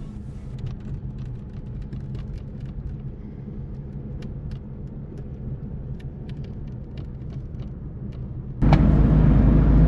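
Car cabin noise while driving: a steady low engine and road rumble with a few light ticks. About eight and a half seconds in it suddenly becomes much louder.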